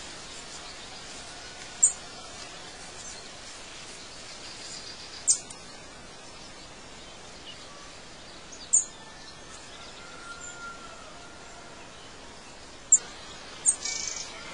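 Birds chirping over a steady hiss of outdoor background noise: short, very high chirps every three to four seconds, two close together near the end, with a faint whistled note about ten seconds in.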